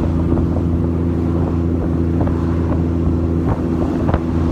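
Honda Valkyrie motorcycle's flat-six engine running at a steady, unchanging pitch.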